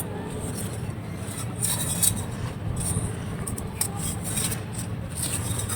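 Dry, crispy clay being crumbled under light pressure: a run of irregular crackles and crunches, over a steady low background rumble.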